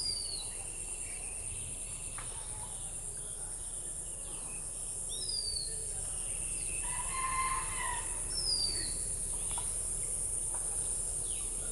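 Steady high-pitched drone of insects, with a bird repeating a short falling whistled call three times, a few seconds apart. Around the middle another bird gives a longer, louder call with several tones.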